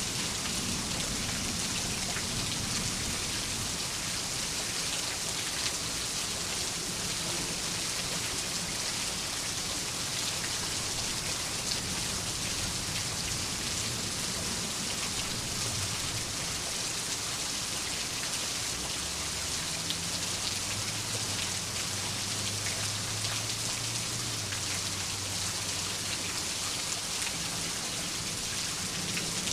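Steady rain falling: an even, dense hiss of drops with fine pattering ticks, and a faint low rumble about twenty seconds in.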